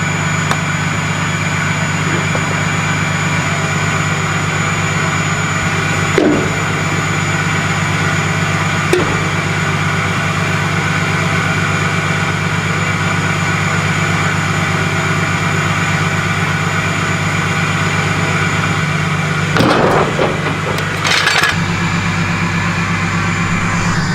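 Truck engine running steadily with a low hum, with a few knocks and rattles, the loudest about 20 seconds in.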